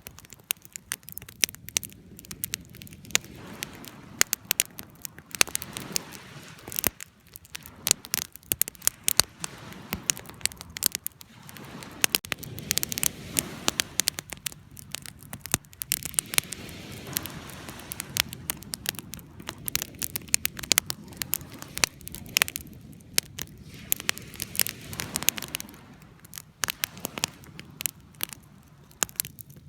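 Wood campfire burning, with a steady low rush of flame and frequent irregular sharp crackles and pops from the burning logs.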